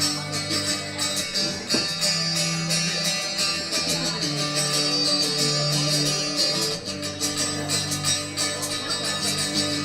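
Live music: the instrumental intro of a song, with guitar strumming and held low notes, before any singing.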